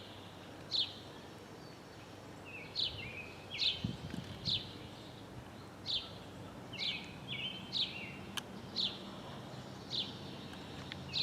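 A songbird calling over and over: short high chirps that drop quickly in pitch, roughly one a second, some followed by a brief lower note.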